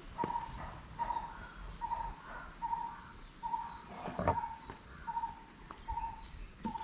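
Birds calling: a short note repeated steadily about twice a second, with higher, falling chirps over it. A brief knock about four seconds in.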